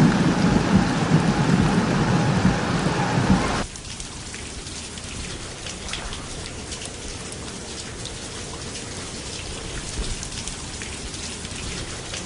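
Heavy rain falling, loud and dense for about the first three and a half seconds, then cutting off abruptly to a quieter, steady rain with scattered drop ticks.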